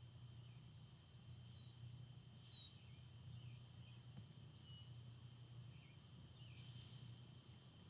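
Near-silent background with faint, scattered bird chirps, short falling notes a second or so apart, over a steady low hum and a thin steady high tone.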